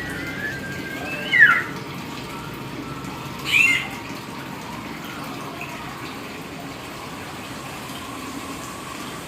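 Hill myna (beo) from East Nusa Tenggara giving two short, loud whistled calls: the first, about a second and a half in, falls in pitch; the second comes about two seconds later. They sit over a steady rushing hiss.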